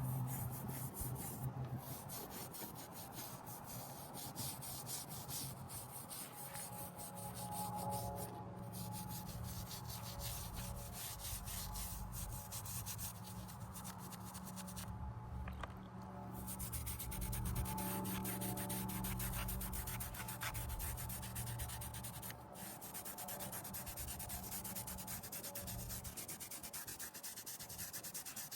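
A headstone's stone surface being rubbed in a quick, steady run of short scrubbing strokes.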